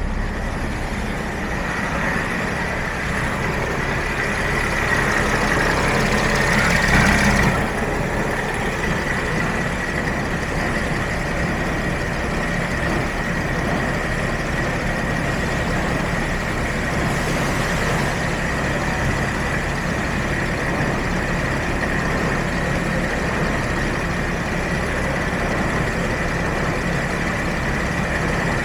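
Mercedes-Benz Sprinter's 3.0-litre OM642 V6 diesel idling, with a steady high whine over the engine note. It grows louder for a few seconds, drops back sharply about seven seconds in, then runs evenly.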